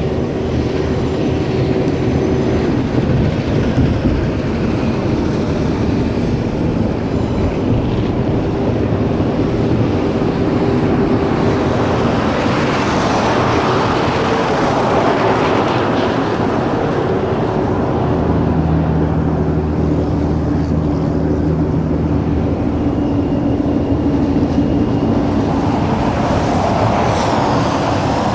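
A train running past: a steady rumble with a low engine hum, swelling louder around the middle and again near the end.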